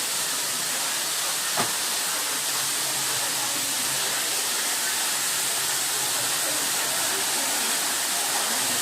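Waterfall rushing: a steady hiss of falling water, with one short click about a second and a half in.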